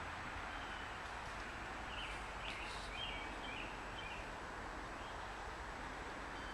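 Steady outdoor background hiss with a few short bird chirps about two to three seconds in.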